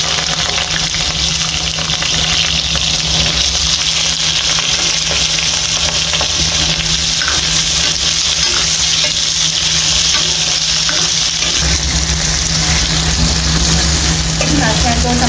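Sliced potatoes frying in hot mustard oil in a kadhai: a steady sizzling hiss, with a metal spoon stirring them. A steady low hum runs underneath.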